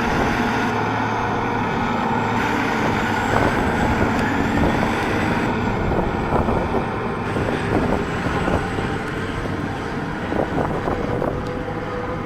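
Challenger MT955C articulated four-wheel-drive tractor's diesel engine running steadily.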